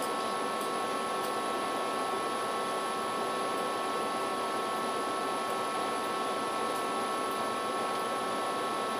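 Steady background hum and hiss with several constant faint whining tones, like room or equipment noise, and a few faint ticks.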